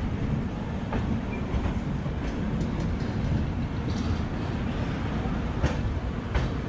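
Lucknow Mail passenger train rolling slowly out of a station, heard from an open coach door: a steady low rumble of the running train, with a few sharp clicks about a second in and near the end.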